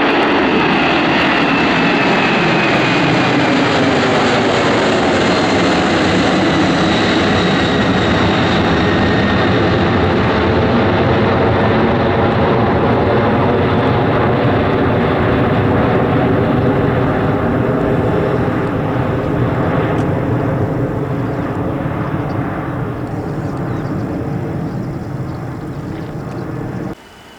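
Cargo airplane's engines passing close by, loud, with whining tones that fall in pitch as it goes past, then slowly fading. The sound cuts off suddenly near the end.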